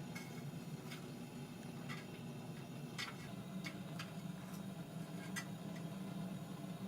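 Gas forge running with a steady low hum, with scattered faint clicks over it.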